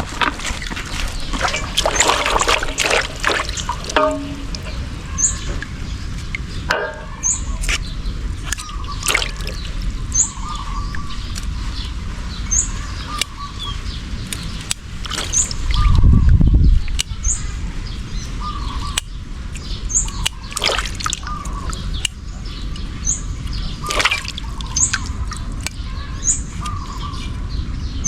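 Water sloshing and trickling with small clicks of handling. A bird gives a short high chirp about once every second or so, and there is one low thump about halfway through.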